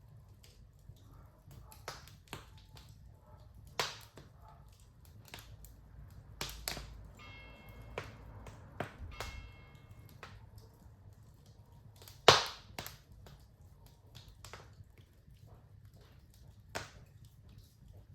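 Wood fire crackling in a fireplace: irregular pops and snaps over a low rumble, the loudest snap about twelve seconds in. A faint thin whistle sounds for a few seconds around the middle.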